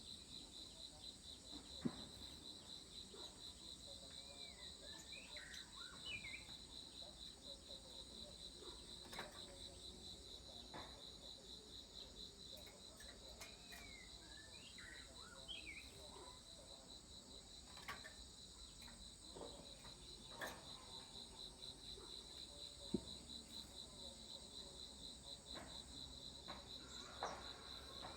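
Faint, steady, high-pitched insect trill that pulses rapidly without a break, with scattered short bird chirps and a few sharp clicks over it.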